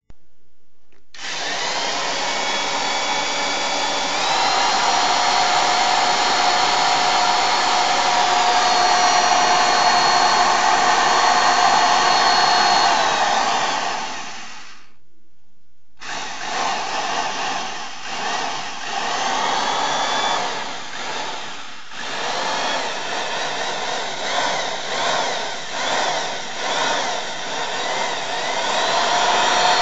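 K'nex model V8 engine driven by a small electric motor, running with a steady whir whose pitch steps up a few seconds in. It stops about fourteen seconds in, then starts again after a short gap and runs more unevenly.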